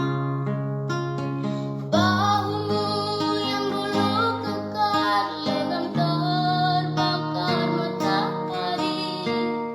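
A song: acoustic guitar playing held chords, with a high singing voice entering about two seconds in and carrying a wavering melody over the accompaniment.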